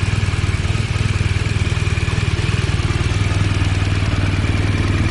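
Motorcycle engine idling steadily, with an even, rapid pulse of firing strokes.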